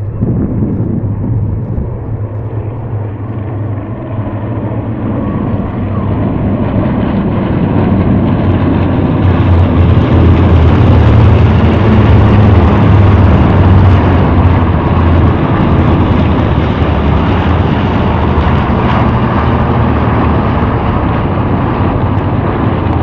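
Piston engines of B-25 Mitchell bombers, twin radial-engined, heard from the ground as the aircraft fly past. The noise builds for about ten seconds, is loudest a little before the middle, then slowly eases off.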